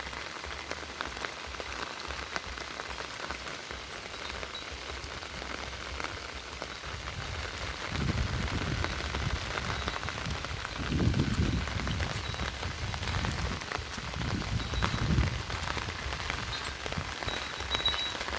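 Steady rain pattering, a fine even hiss of drops throughout. Low rumbling swells come and go in the second half.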